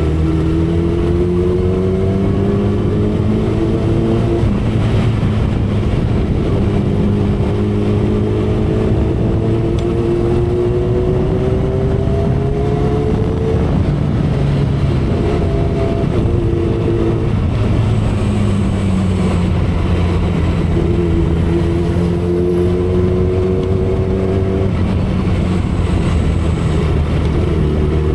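2012 Kawasaki Ninja ZX-10R's inline-four engine running at expressway speed, its pitch climbing slowly and dropping back several times, under steady wind and road noise.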